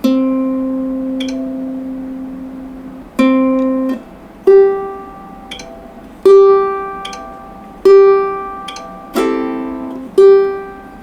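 Ukulele strings plucked one at a time and left to ring out: a low note twice, then a higher note plucked again and again, with a brief strum of several strings about nine seconds in.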